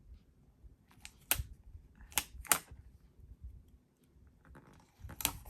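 A few sharp clicks and snips from handling paper and craft tools: two close together in the middle and one more near the end, with faint paper rustling between.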